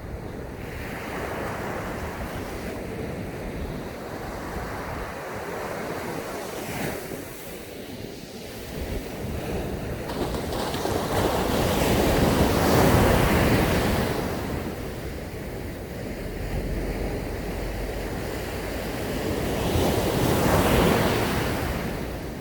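Sea waves breaking and washing up a sandy beach, the surf swelling and fading in two bigger surges, about halfway through and near the end, with a low rumble of wind on the microphone.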